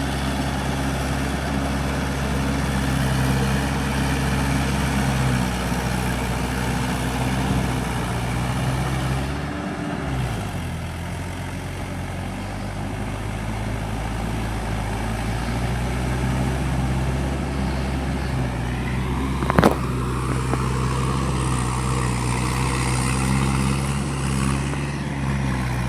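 Mahindra 585 tractor's four-cylinder diesel engine running steadily under load. About ten seconds in its pitch sags briefly, then recovers, and a single sharp knock sounds a little past two-thirds of the way through.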